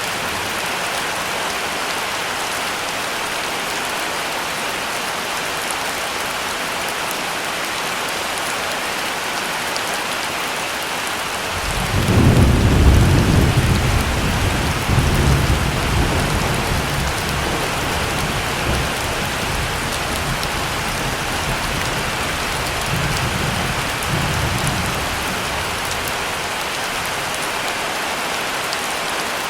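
Heavy rain falling steadily, with a roll of thunder that breaks in about twelve seconds in, rumbles loudest for a few seconds, then slowly dies away with a last swell near the end.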